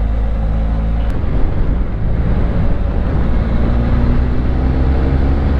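Motorcycle engine running on the move, with wind noise over the microphone. There is a single click about a second in, and the engine note climbs slowly in the second half.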